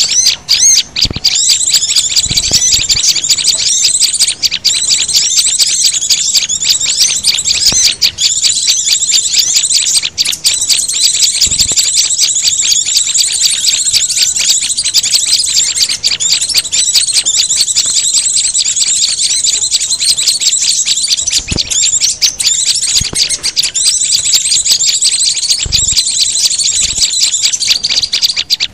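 Dense, continuous high-pitched chirping and trilling of small songbirds, a bird-lure mix of calls of white-eyes, prinias, sunbirds and flowerpeckers, played without a break.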